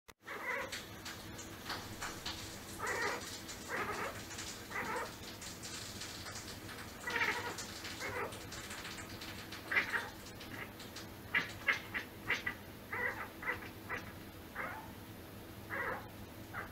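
Domestic cat making strange repeated short calls, a few spaced apart at first, then a faster run of very brief calls in the second half.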